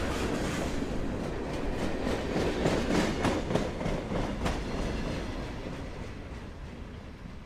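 CSX freight train rolling past, its wheels clicking over the rail joints over a steady rumble; the clicks are loudest a few seconds in, then the sound fades.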